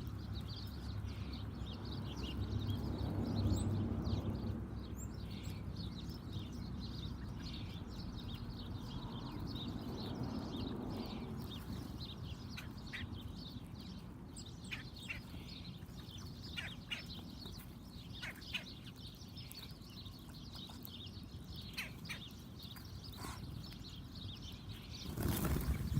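Small backyard birds chirping and calling in short notes over a low steady background rumble, with a louder brief noise near the end.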